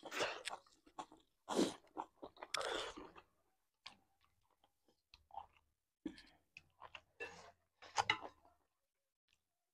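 Close-miked chewing of mouthfuls of rice, meat and greens eaten by hand, in irregular bursts with short pauses between.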